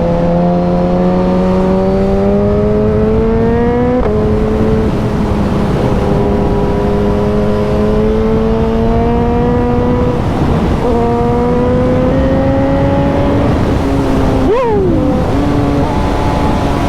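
Suzuki 1000cc naked motorcycle's engine pulling in gear, its pitch climbing slowly, with a drop in revs at gear changes about four and ten seconds in. A quick sharp rev spike falls straight back about three-quarters of the way through. Heavy wind rush on the microphone runs under the engine.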